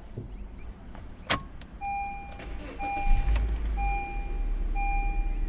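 A car's electronic warning chime beeping steadily about once a second, after a sharp click. About three seconds in, the Honda City's engine starts and runs with a low, steady rumble under the beeps.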